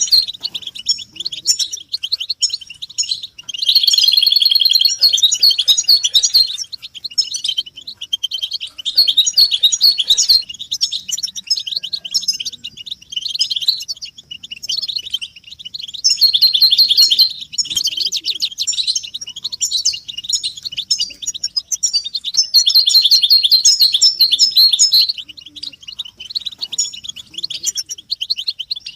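European goldfinches twittering in fast, tinkling chatter. It comes in phrases a few seconds long, with short dips between them.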